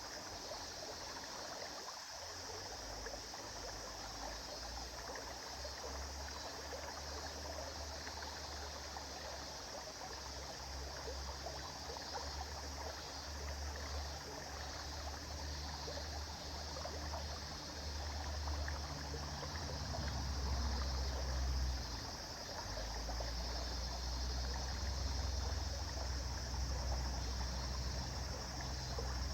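River water flowing steadily over stones, an even rushing with a low rumble beneath that grows louder about two-thirds of the way in.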